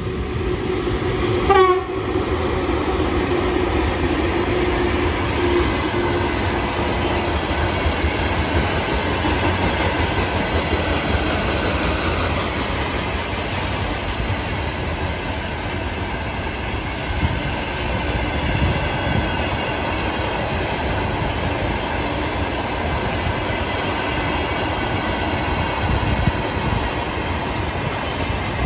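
Freight train passing close by: the electric locomotive gives a short horn blast about a second and a half in, then a long string of loaded open wagons rolls past with a steady rumble of wheels on the rails.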